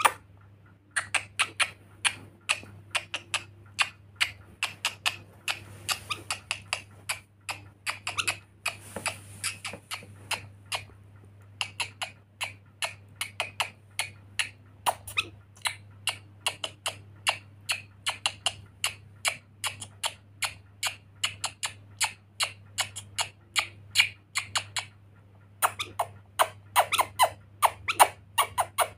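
Pet lory parrot giving a long run of short, sharp squeaky chirps, about three a second, with two brief pauses.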